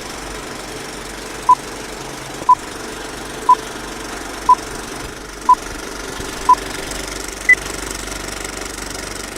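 Six short electronic beeps exactly one second apart, then a seventh, higher beep a second later, like a countdown or time-signal pips. Under them runs a steady engine-like drone.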